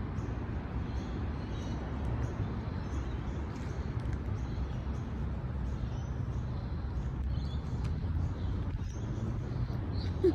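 Outdoor garden ambience: a steady low rumble, with faint high bird chirps repeated at an even pace throughout.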